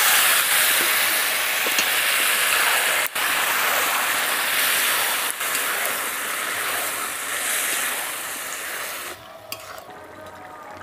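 Boiled banana flower sizzling as it hits hot fish-head masala in a kadai and is stirred with a steel spatula. The sizzle drops away sharply about nine seconds in.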